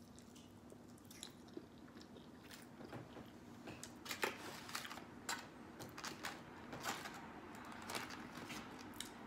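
A person chewing a mouthful of baked macaroni and cheese close to the microphone, with soft crunches and wet mouth clicks, growing busier a few seconds in. A plastic fork clicks and scrapes in foam takeout containers.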